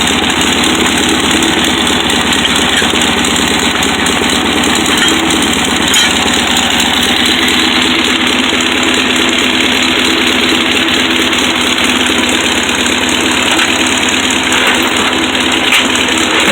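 Volkswagen 1500cc air-cooled flat-four engine, fitted with headers and an aftermarket exhaust, idling steadily with no revving.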